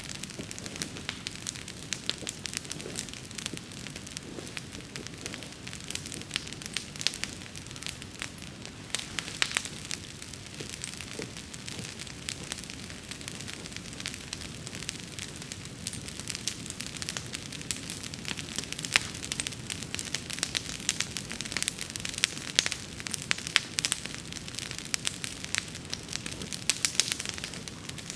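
Wood bonfire burning, with dense, irregular crackling and popping over a low rumble of flame. The pops grow more frequent and louder in the second half.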